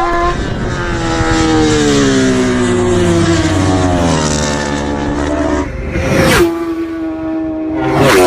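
Racing motorcycle engine at high revs, its note falling steadily for about five seconds as it slows. Then two brief loud rushes come about two seconds apart, and a steady high engine note follows.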